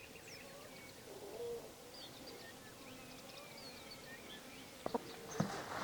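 Small birds chirping and calling, with a low cooing call about a second and a half in. Two sharp knocks near the end.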